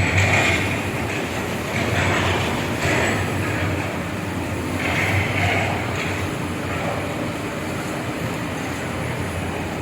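Backhoe excavators working in a deep pit: steady diesel engine noise, with harsh higher-pitched bursts about every one to three seconds.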